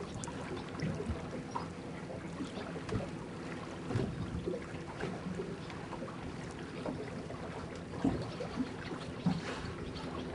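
Water lapping and splashing in small irregular bursts against a boat on moving tidal water, over a faint steady hum.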